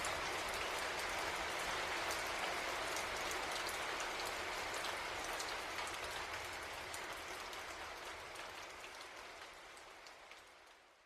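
Steady rain, heard as a dense hiss with many small drop ticks, fading out gradually over the last five seconds.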